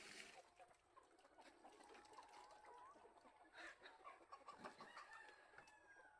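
Faint clucking and short cheeping calls of a flock of chickens, with a few soft knocks in the second half.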